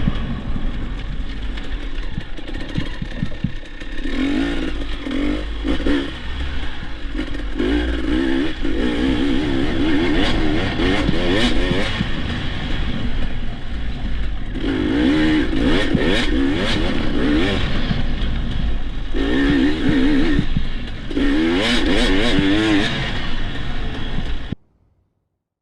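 Dirt bike engine revving up and down while being ridden, in repeated bursts of throttle whose pitch wavers and climbs, over a steady low rumble. The sound cuts off abruptly near the end.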